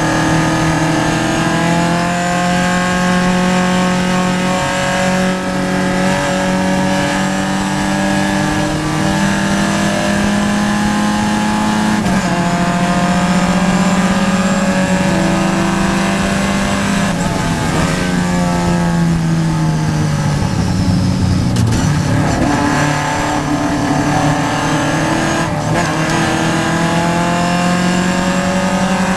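Vintage Triumph race car's engine heard from inside the car at racing speed, held high for long stretches. About two thirds of the way through its pitch falls as it comes off the throttle and shifts down, then climbs again.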